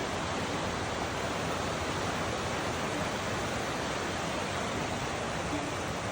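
Steady rush of a mountain stream or cascade, an even noise with no breaks.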